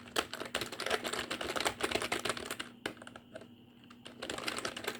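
Computer keyboard keys clicking in a rapid, dense flurry of fast typing, easing off a little under three seconds in for about a second before picking up again.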